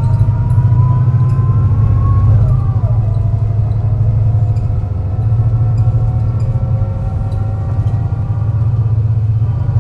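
MAN NL202 CNG bus engine pulling under load on a hill climb, with a heavy low rumble and the whine of its ZF Ecomat automatic gearbox rising in pitch. About two and a half seconds in, an upshift drops the whine, which then climbs slowly again. The engine has a bad misfire, which the uploader says makes the climb dramatic.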